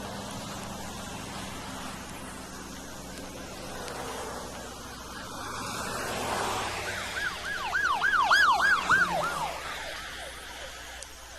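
Police car yelp siren: a quick run of fast rising-and-falling sweeps lasting about two and a half seconds, about seven seconds in, over the rushing noise of the car, which builds up and then fades away.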